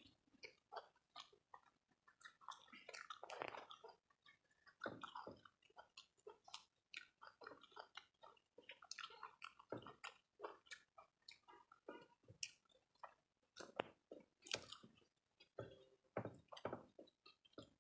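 Faint, irregular chewing and wet mouth smacks of people eating rice and curry.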